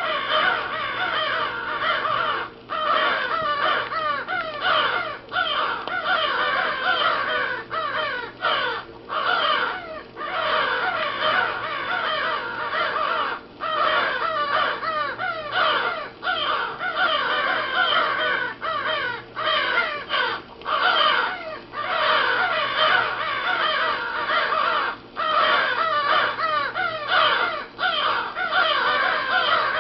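A hunting record of live crows played back: many crows cawing at once in a dense, near-continuous chorus of harsh, short, downward-sliding caws, broken by brief pauses.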